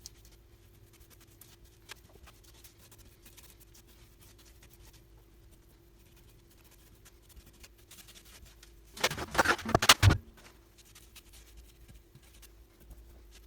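A faint steady hum with light scattered scratching, then about nine seconds in a loud rasping scrape of rapid strokes lasting about a second.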